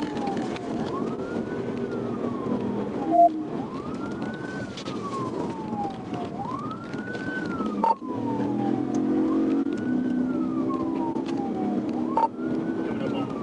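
Police car siren wailing, rising and falling about once every three seconds, over steady engine and road noise during a high-speed pursuit.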